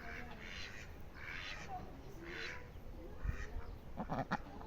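Poultry calling: a run of short, harsh calls, roughly one a second, with a few sharp knocks near the end.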